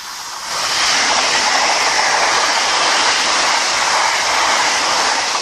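A train passing close by at speed: a loud, steady rushing roar of wheels and air that builds over the first half second and starts to fade just before the end, with no horn sounded.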